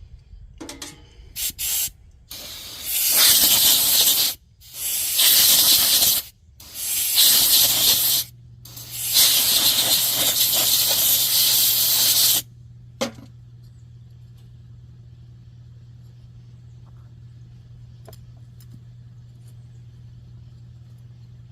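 Aerosol brake cleaner sprayed onto a heater's igniter electrodes: a few short spurts, then four long blasts of a couple of seconds each. A low steady hum comes in partway through and carries on after the spraying stops.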